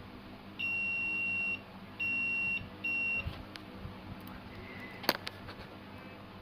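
Three electronic beeps of the same high pitch, the first about a second long and the next two shorter, followed a couple of seconds later by a single sharp click.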